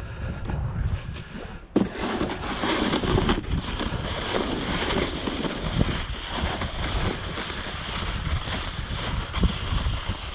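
Wind buffeting the microphone outdoors in winter, with a louder, steady rushing noise setting in suddenly about two seconds in.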